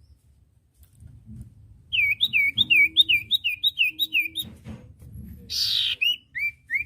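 Common iora (cipoh) singing: after about two quiet seconds, a quick run of short down-slurred whistled notes, about five a second, then a brief harsh rasp and a few more slurred notes near the end.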